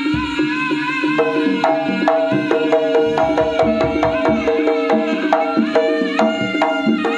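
Live Javanese jaranan gamelan music: hand-drum patterns with struck pitched percussion over sustained melody notes, the rhythm filling out about a second in.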